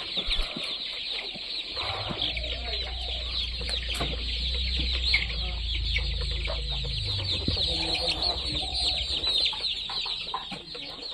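A flock of chickens calling, with many short, high chirps and peeps packed densely throughout. A low rumble runs underneath from about two seconds in until about seven seconds.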